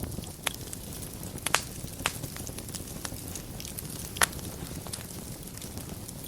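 Wood fire burning in a fireplace: a steady low rumble with soft crackling, broken by four sharp pops, the loudest about a second and a half in and just past four seconds.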